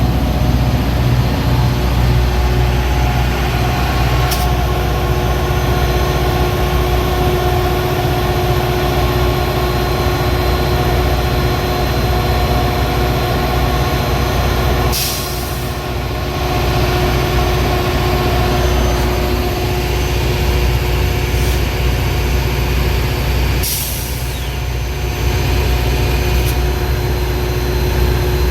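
Metra commuter train running with a steady low rumble and hum. Two short air hisses sound, one about halfway through and one about three-quarters through.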